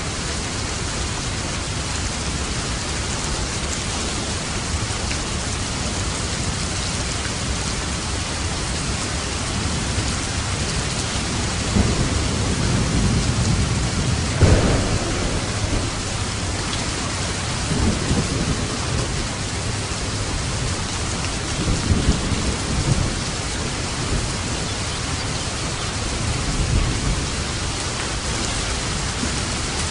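Steady, heavy rain falling, with low rolls of thunder rumbling several times from about twelve seconds in, the loudest around the middle.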